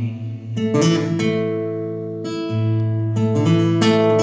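Acoustic guitar playing an instrumental passage between sung verses, with chords picked and strummed and left ringing.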